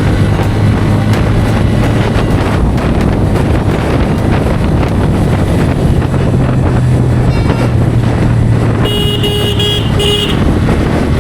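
Bajaj Pulsar N160's single-cylinder engine running steadily at highway speed under road and wind noise. About nine seconds in, a vehicle horn sounds twice, a longer blast and then a short one.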